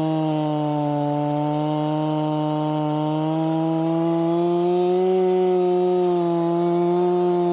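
Chainsaw running at high revs through a log on a beam mill, a steady high engine note that dips a little and climbs again about five seconds in.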